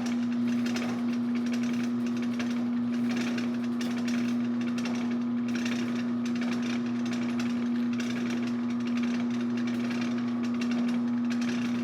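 Drill press running with a steady hum, its bit boring a hole through a wooden pizza peel handle.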